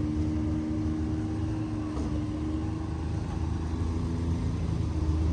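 A vehicle engine running steadily at low speed, its pitch creeping slightly upward.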